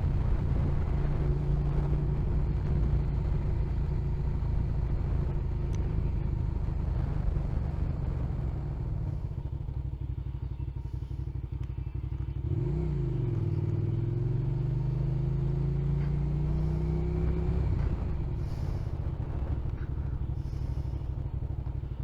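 Motorcycle engine running while riding, with road and wind noise. About halfway through, the engine pitch dips sharply, then climbs steadily for several seconds as the bike accelerates, and falls back again near the end.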